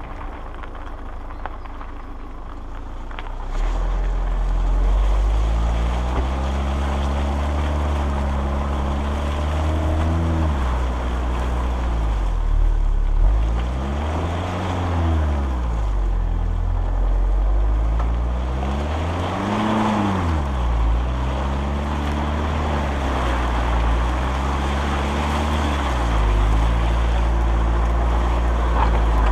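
A 4x4 SUV's engine under way, its revs rising and falling several times as it drives over rough, muddy ground. Wind buffets the microphone.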